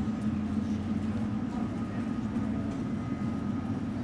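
Steady low mechanical drone with a faint, thin high whine running through it.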